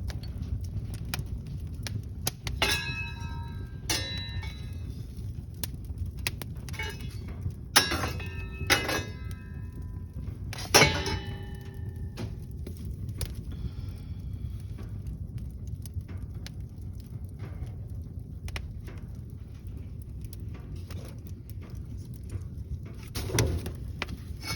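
Small wood fire crackling in a fireplace over a steady low rumble, with about five sharp metallic clanks that ring briefly in the first half, from wood and fireplace tools knocking against the metal grate.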